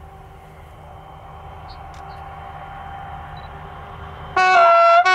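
Low rumble of an approaching train growing slowly louder, then about four seconds in a loud two-tone horn blast from a BB 67000-class diesel locomotive: a higher note dropping to a lower one, a short break, then the higher note again.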